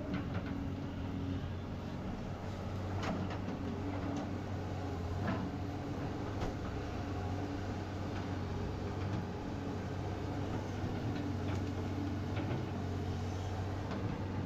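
Excavator's diesel engine running steadily while digging, with a few sharp knocks and clanks scattered through it.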